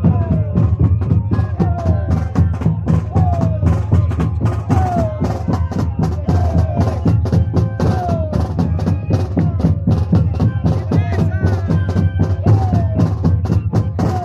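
Moseñada band playing: a group of moseño flutes repeats a short falling phrase over a low drone, with steady drum beats.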